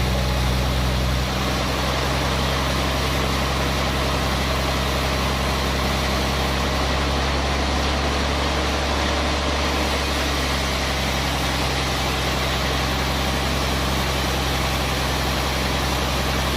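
Sawmill machinery running steadily with a low engine hum, not cutting. The hum drops slightly about a second in.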